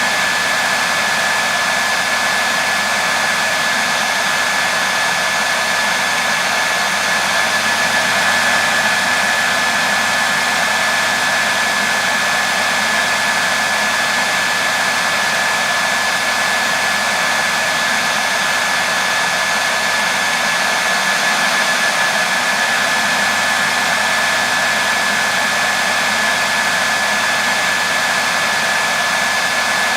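Hair dryer running steadily: a continuous rushing blow of air with a faint steady whine on top.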